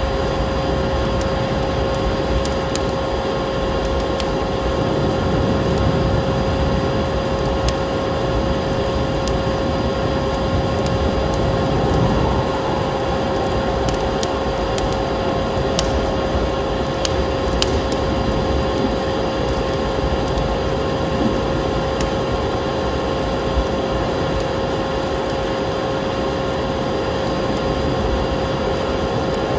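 Wood fire crackling in a fireplace, with scattered small pops and snaps over a steady low rumbling noise and a constant hum.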